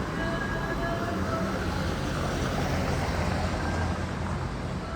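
Urban street ambience: a steady low rumble of vehicle traffic, with a few faint short tones over it.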